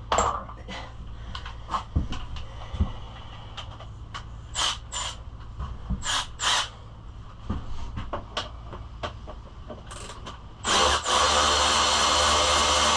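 Tool clicks and knocks with several short bursts of a power drill, typical of fasteners being run out while old bodywork plastics come off a pit bike. Near the end, a loud steady motor starts and keeps running.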